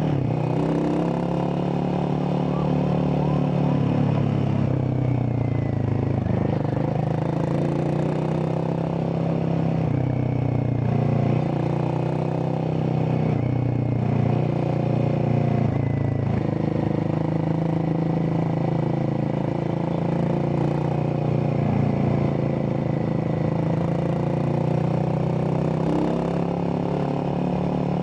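Royal Enfield Himalayan 450's single-cylinder engine running through a decat exhaust, the catalytic converter removed. Its note rises and falls a few times with light throttle.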